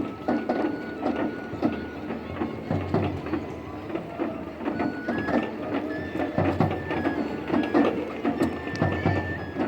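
Japanese festival hayashi music: a bamboo flute holds long high notes, stepping up in pitch about halfway through, over drum beats and busy clacking percussion.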